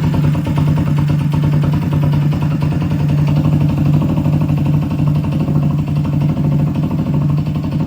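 Moped engine, newly swapped in, running at a steady idle.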